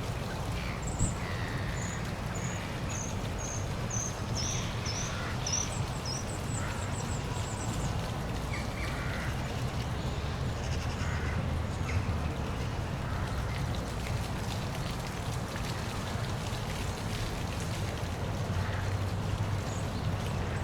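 Steady rush of a small park waterfall with a low rumble underneath, while birds call over it: a run of about a dozen short high chirps falling in pitch in the first half, then scattered calls.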